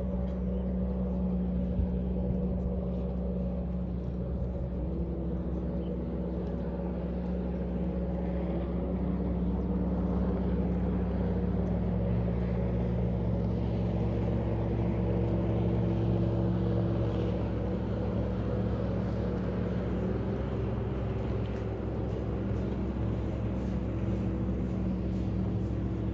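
A steady mechanical hum: a low rumble under several steady tones that shift slightly in pitch a few times.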